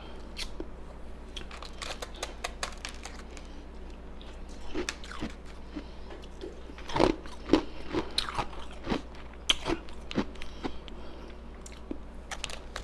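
Ice being bitten and chewed close to the microphone: irregular sharp crunches and cracks, loudest and thickest through the middle of the stretch.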